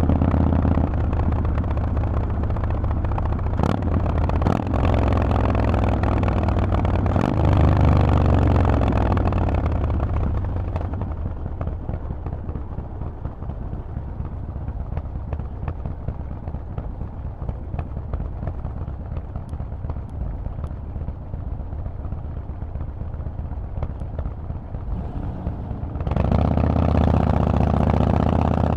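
Harley-Davidson Forty-Eight's air-cooled V-twin running steadily through Vance & Hines exhaust. About ten seconds in the engine sound drops away to a quieter, uneven noise with small ticks, then comes back suddenly and loud a couple of seconds before the end.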